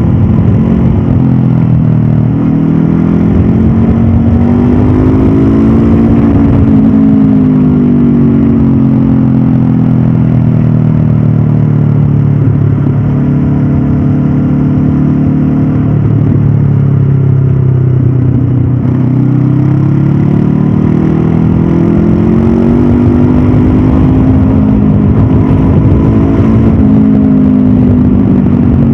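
Stock Honda CB500F's 471 cc parallel-twin engine and exhaust under way, the revs climbing and falling several times: rising early on, easing back and holding lower through the middle, a drop a little past halfway, then climbing again with a brief dip near the end.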